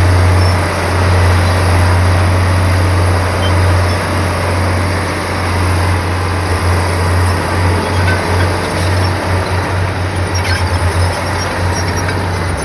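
Diesel engine of heavy earthmoving machinery running: a steady low drone over broad mechanical noise, pulsing rapidly in places, strongest about three-quarters of the way in.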